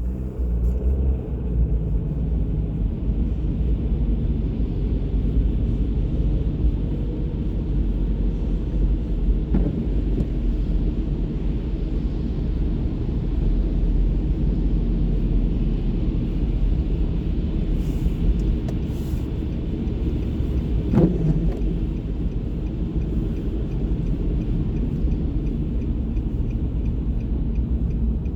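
Steady low rumble of city traffic, with a faint hiss over it. Two brief, sharper sounds stand out, one about ten seconds in and another about twenty-one seconds in.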